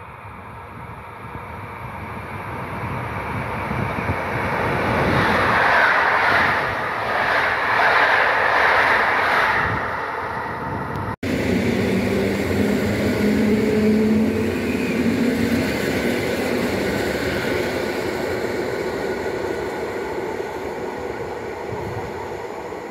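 PolRegio electric multiple unit passing close along the platform track: the wheel and rail noise builds over several seconds and peaks, then, after a brief break in the sound about eleven seconds in, the train fades slowly as it pulls away, with a steady low hum.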